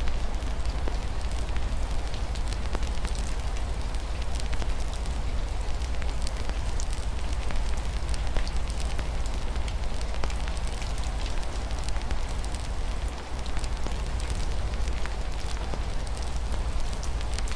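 Wood fire crackling with many small irregular pops over a steady hiss of rain and a low rumble.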